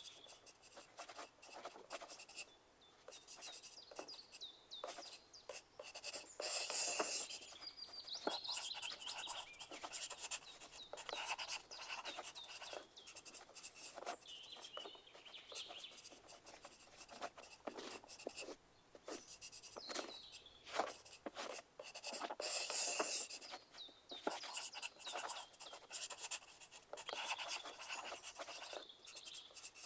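Pencils writing on paper: a steady run of scratching strokes with short pauses, at its busiest about seven and again about twenty-three seconds in.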